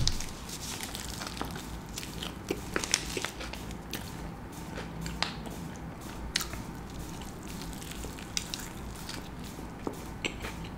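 A big bite into a chicken shawarma roll, then close-miked chewing of the wrap, with many small wet crackles and crunches.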